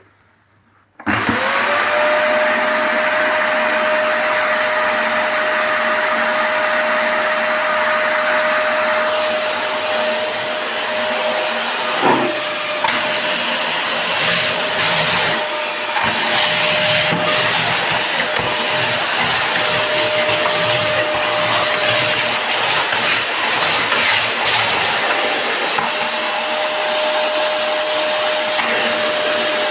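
Matsui M85VCB17E bag vacuum cleaner switched on about a second in, its motor whine rising quickly to a steady pitch, then running loud and steady with the rush of air.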